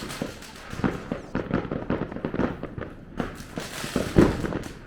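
Fireworks and firecrackers going off across the city, many irregular bangs and cracks overlapping, with one louder bang about four seconds in.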